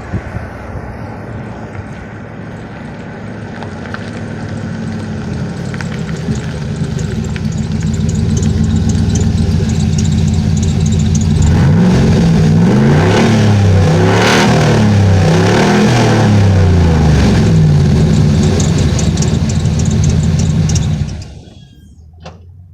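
Chevy 364 ci (6.0 L) Vortec V8 running through an open exhaust, the muffler deleted and the pipe dumped under the cab, loud and growing louder under load. The revs then rise and fall about four times, and the sound drops away suddenly near the end.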